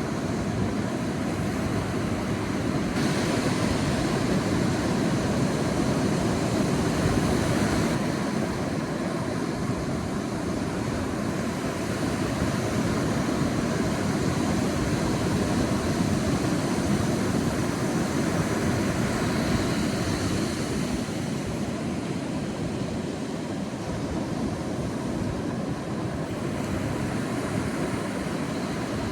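Sea waves breaking and washing on a beach: a continuous rush of surf that swells and eases slowly.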